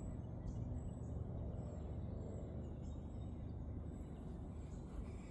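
Outdoor ambience: a steady low rumble with faint, short, high bird chirps scattered through it.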